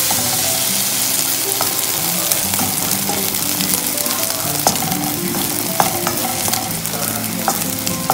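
Omelette frying in butter in a nonstick pan, sizzling steadily, with a few clicks and scrapes from a plastic slotted spatula working under the omelette to turn it.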